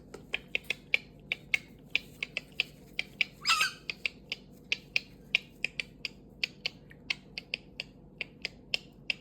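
Galah cockatoo making a run of sharp, irregular clicks, several a second, with one short harsh squawk about three and a half seconds in.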